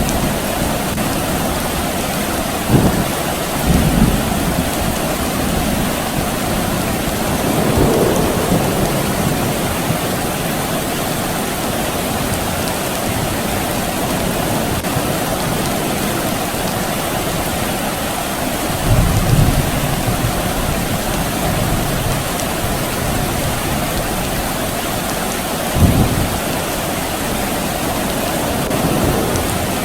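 Steady soft rain falling, with several short, low rumbles of distant thunder breaking in, the strongest about three, eight, nineteen and twenty-six seconds in.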